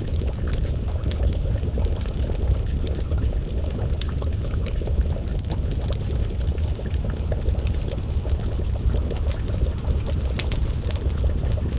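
Wood fire crackling, with many small sharp pops and snaps over a steady low rumble.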